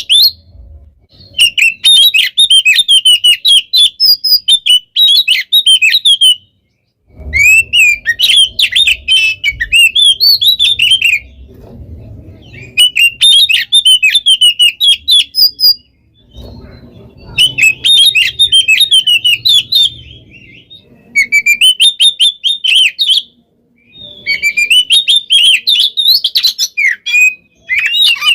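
Oriental magpie-robin (kacer) singing: dense phrases of rapid chirps and trills, each a few seconds long, broken by short pauses.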